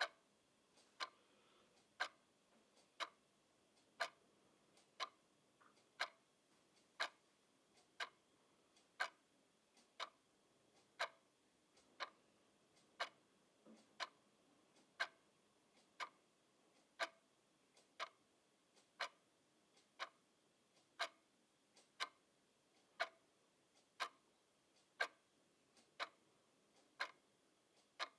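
Clock ticking steadily, about one tick a second, with every other tick a little louder in a tick-tock rhythm.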